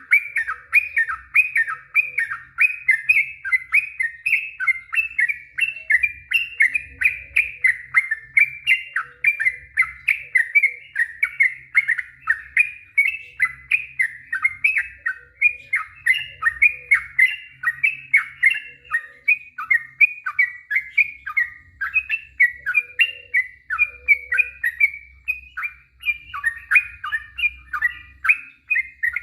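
Sooty-headed bulbul (trucuk) singing a long, unbroken run of quick chirping notes, about three or four a second: the 'ropel panjang' rapid-fire song.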